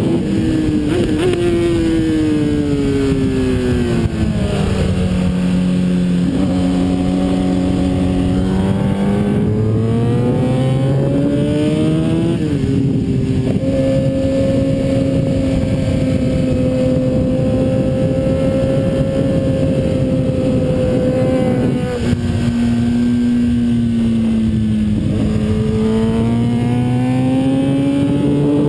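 Kawasaki ZX-10R's inline-four engine at speed on track, with wind rush over the microphone. The pitch falls over the first few seconds, climbs, steps once about twelve seconds in, holds steady for about eight seconds, drops about 22 seconds in and climbs again near the end.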